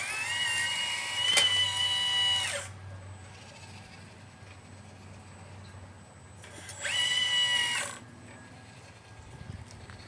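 Electric motor of a 1/12-scale RC Liebherr 954 excavator whining under load in two bursts. The first rises in pitch, holds steady and stops about two and a half seconds in; the second is a shorter, steady whine of about a second, about seven seconds in. A faint knock comes near the end.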